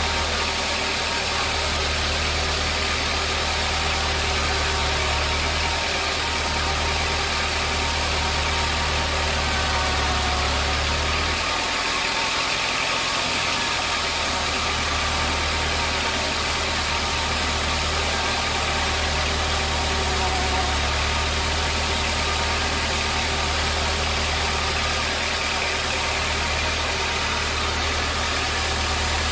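Sawmill machinery running steadily: a loud, constant mechanical drone with a low hum that drops out briefly about twelve seconds in.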